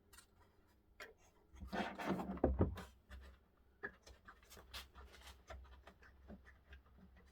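Hand cleaning of a clock's parts: a burst of scrubbing and rubbing about two seconds in, followed by scattered light clicks and taps from handling.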